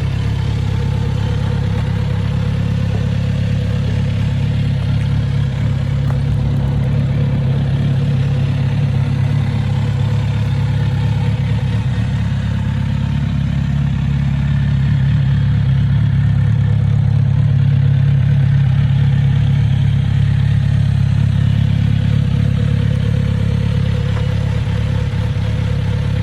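2020 Kawasaki Z900RS's inline-four engine idling steadily.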